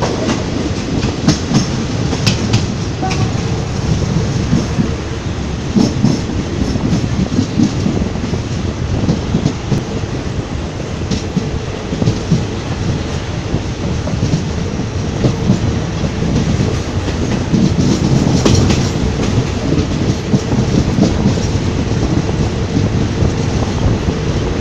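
Passenger train carriage running on the rails, heard from inside the carriage: a steady low rumble of the wheels with irregular clicks and clacks as they pass over rail joints.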